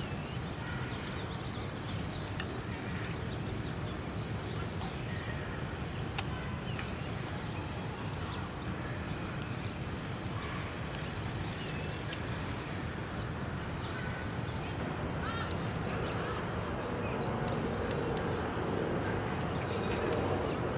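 Steady outdoor city background hum with scattered short bird calls; a low rumble grows slightly louder near the end.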